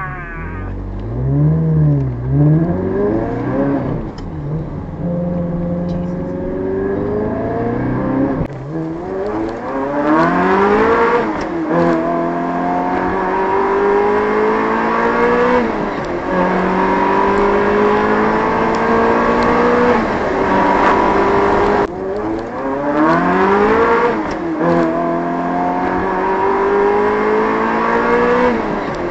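Ferrari 360's V8 engine with a Tubi exhaust, blipped twice near the start, then pulling through the gears of its manual gearbox: the engine note climbs steadily and drops back at each upshift, several times over.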